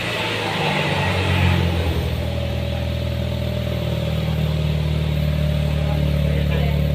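Toyota Yaris exhaust note through an NDK full-system exhaust with a DK-01 V2 muffler. The engine dips just at the start, then runs at a steady speed with a deep, even drone.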